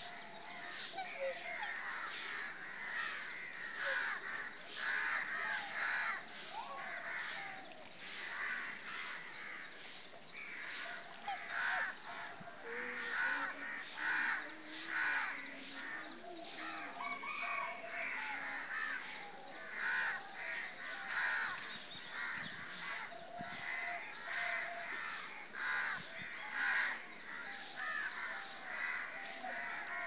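Birds calling over and over, a steady stream of short calls about two a second, with a few brief pitched notes mixed in.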